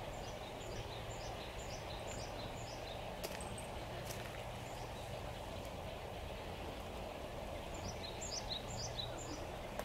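Outdoor ambience: a steady low background hum, with a small bird twittering in two short runs of quick high chirps, one at the start and one near the end.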